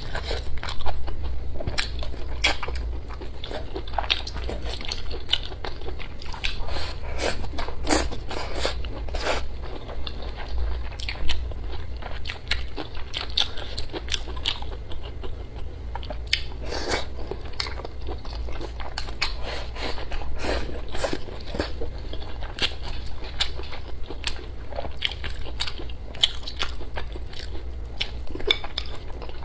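Close-miked eating: biting and chewing braised pig intestines and green peppers, with many sharp mouth clicks at irregular intervals over a steady low hum.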